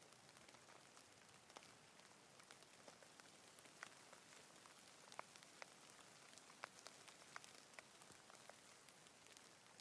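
Faint, steady light rain: a soft hiss with many separate drops ticking sharply at irregular moments.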